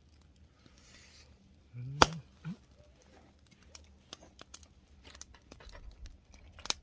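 Wood fire with oysters grilling on it, crackling in scattered sharp clicks, with one loud crack about two seconds in.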